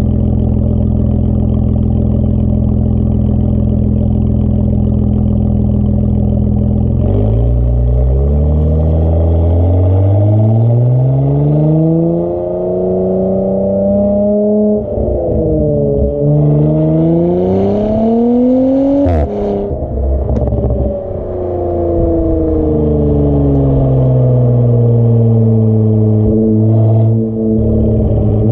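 Audi S5 B9's turbocharged V6 through an AWE Track exhaust, idling steadily for about seven seconds. Then the engine note climbs slowly, drops, climbs again to a sharp crack, and falls and settles before starting to rise again near the end.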